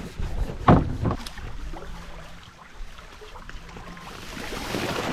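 Canoe being worked past a log: one loud sharp knock under a second in and a lighter knock just after, then scattered quieter knocks, with a rushing noise that swells near the end.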